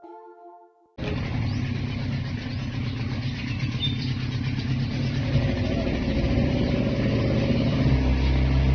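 A tune ends, and about a second in it cuts abruptly to a motorized boat engine running steadily underway, a loud low drone with a steady hiss over it. Its note shifts slightly near the end.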